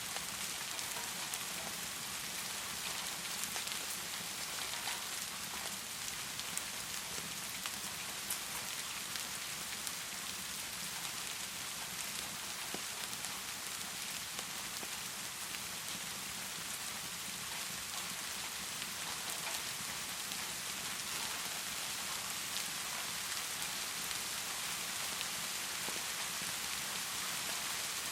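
Heavy rain falling steadily: an even hiss with scattered sharp ticks throughout.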